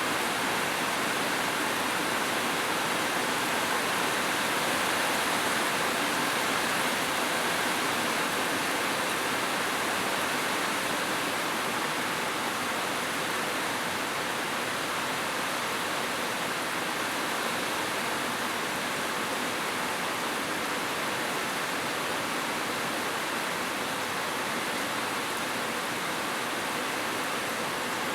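Heavy rain falling, a steady unbroken hiss of water.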